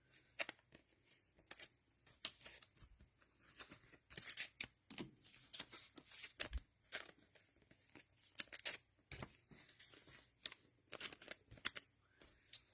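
Trading cards and plastic wrapping being handled: faint, scattered rustles, ticks and crinkles.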